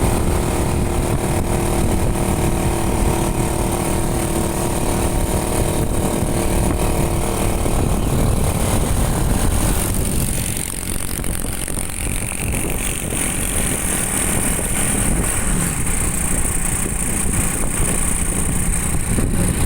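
Motorcycle engine running steadily under way, mixed with wind and road noise. Its steady hum fades out about eight to ten seconds in, leaving mostly rushing wind and traffic noise.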